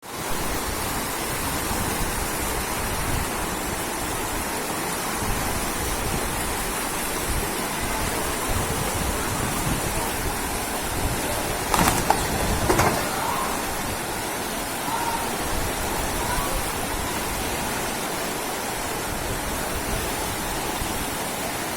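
Steady, loud rush of heavy floodwater or downpour, with two short louder sounds about twelve seconds in.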